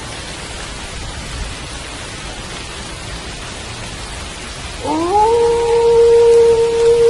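Steady rain falling throughout. About five seconds in, a wolf starts a howl that rises quickly in pitch and then holds one long, level note.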